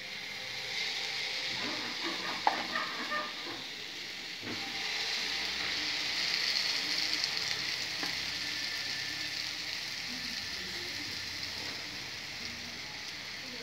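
Beaten egg mixture with chopped onion and tomato sizzling as it is ladled into hot coconut oil in a non-stick pan, a steady frying hiss that swells around the middle. A few sharp clicks sound over it, the loudest about two and a half seconds in.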